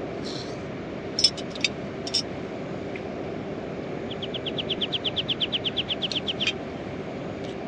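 Steady hiss of rain with a low steady hum under it and a few sharp clicks about a second in. From about four seconds in, a rapid high trill of about eight chirps a second lasts some two and a half seconds.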